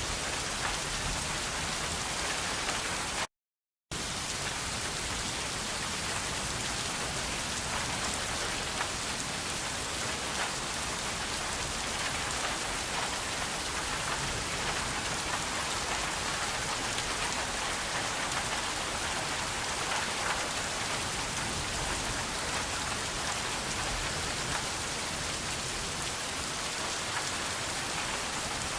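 Steady, even rain falling on surfaces, a dense patter of drops. The sound cuts out completely for about half a second a little over three seconds in, then resumes unchanged.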